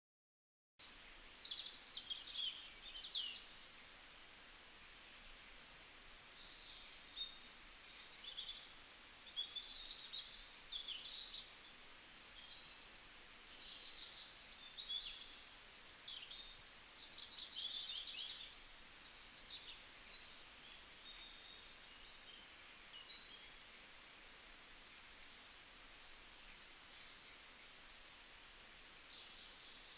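Many small birds chirping, with overlapping short high calls and trills over a faint steady hiss, starting about a second in.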